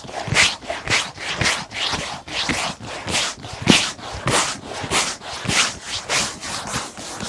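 Stiff shoe brush scrubbing back and forth over a leather boot in quick, even strokes, about two or three a second.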